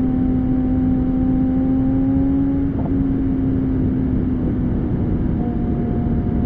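Porsche 718 Spyder's flat-six through a Kline valved exhaust, running at steady revs with one strong, even tone. About three seconds in the note breaks briefly, then holds a slightly lower steady pitch.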